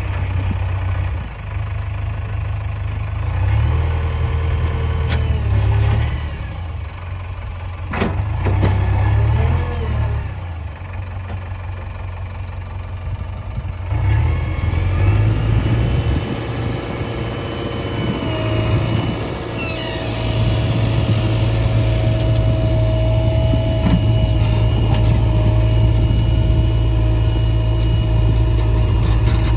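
Heavy diesel engine running, its note rising and falling repeatedly under changing load, then running steadier and louder for the last third with a steady high whine over it. There is a sharp click about eight seconds in.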